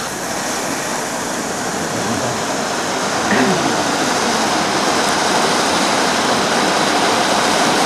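Steady rushing hiss of many small firework fountains burning together in a set-piece light picture, growing slightly louder.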